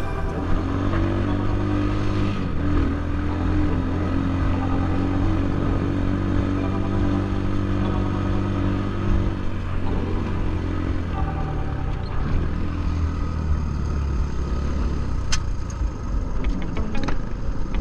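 Templar 250 motorcycle engine running under way at a fairly steady speed, its pitch shifting a few times. A run of sharp clicks comes near the end.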